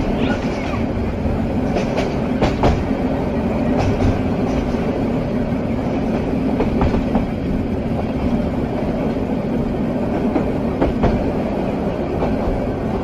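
Train running along the track: a steady rumble with occasional clacks from the wheels.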